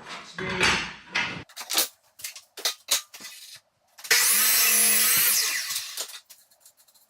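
A few knocks and clicks of handling, then a power saw runs for about two seconds, cutting off a strip of maple-veneered plywood, and winds down.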